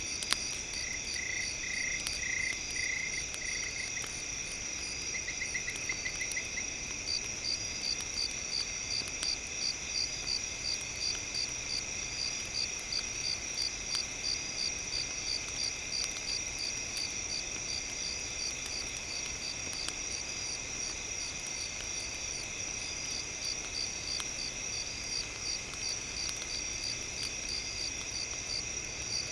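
A night chorus of crickets: a continuous high trill with chirps pulsing about twice a second from several seconds in, and a brief run of lower chirps near the start. Faint scattered crackles of a campfire underneath.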